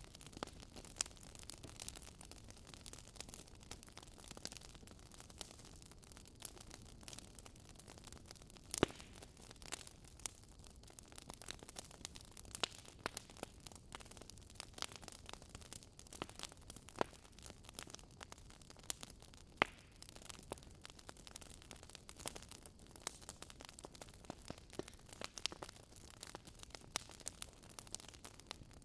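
Campfire crackling: burning wood giving off frequent small pops and snaps over a soft hiss, with a few sharper pops standing out.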